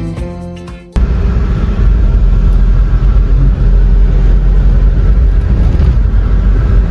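Background music fading out, then about a second in a sudden cut to loud, steady low rumbling noise of a moving car: a Mahindra Xylo's road and engine noise.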